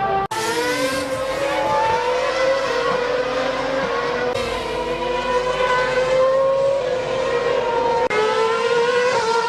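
Formula 1 car V8 engines at high revs, a high-pitched note with several pitch lines that rises and falls with throttle and gear changes. The sound changes abruptly about a third of a second in and again about eight seconds in.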